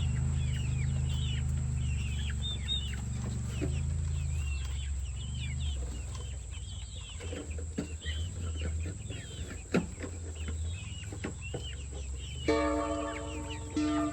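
Chickens clucking, many short calls one after another, over a steady low hum. Music comes in near the end.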